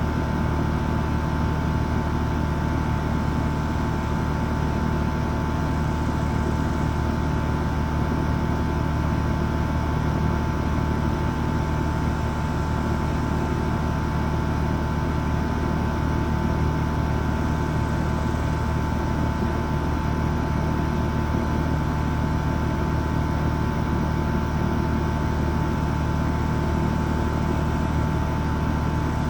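HVAC unit running steadily: a constant hum with a steady higher tone over it.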